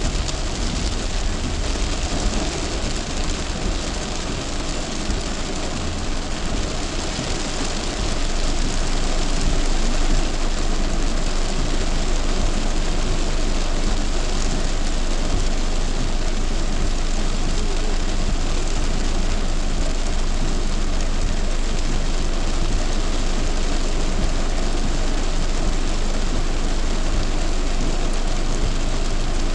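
Heavy rain beating on a moving car, mixed with the wet-road noise of its tyres and engine. Steady noise that grows louder about eight seconds in.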